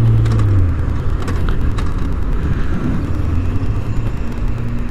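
2005 Kawasaki ZX-6R's engine note dropping away as the bike stalls mid-ride, leaving steady wind and road rumble on the microphone as it coasts. The owner suspects a weak or loosely connected battery.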